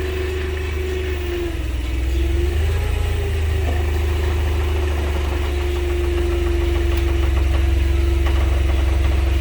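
Forklift running with a steady engine hum, its pitch dipping briefly about two seconds in and then holding steady.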